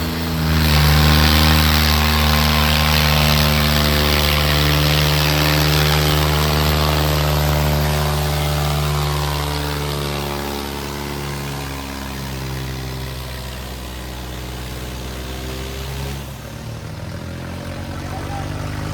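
Diesel tractor engines, an Eicher 557 and a New Holland 3630, running hard under heavy pulling load in a tug-of-war pull. The engine note is steady and loud at first, eases off from about ten seconds in, and changes abruptly about sixteen seconds in.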